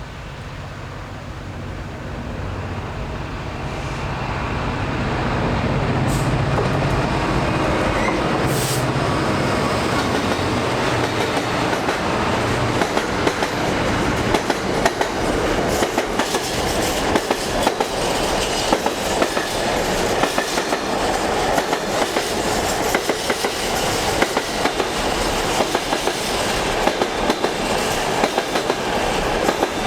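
Class 66 diesel-electric freight locomotive passing, its two-stroke engine drone growing louder over the first few seconds. A long train of intermodal container wagons then rolls by steadily, with clickety-clack from the wheels over the rail joints.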